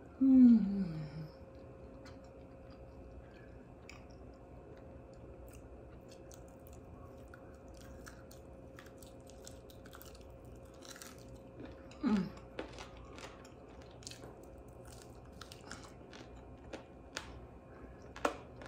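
A person eating a buffalo chicken wing: faint scattered crunches, chewing and lip smacks throughout. Two short humming sounds falling in pitch, a loud one right at the start and a weaker one about twelve seconds in.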